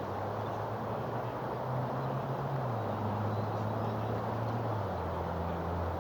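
A low, steady motor drone that steps down in pitch about halfway through and again near the end, over a constant rushing noise.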